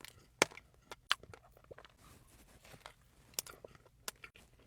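Close-miked chewing of a soft donut: scattered short mouth clicks and smacks, a few sharper ones standing out.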